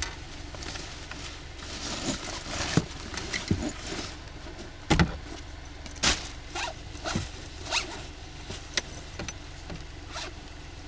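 A zipper being worked and gear being handled: an irregular run of short rasps and clicks.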